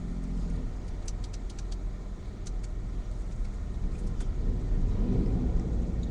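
A car driving, heard from inside the cabin: a steady low road and engine rumble with a few faint scattered clicks.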